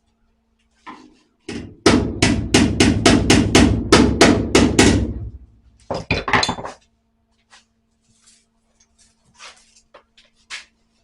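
Hammer striking sheet steel in a car's spare wheel well patch repair. About a dozen even blows come at roughly four a second, then a quick flurry, then a few light taps.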